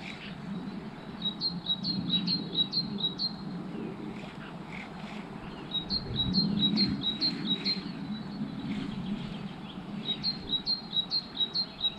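A small songbird singing a quick phrase of about eight high chirps, three times over, with a low rushing background underneath.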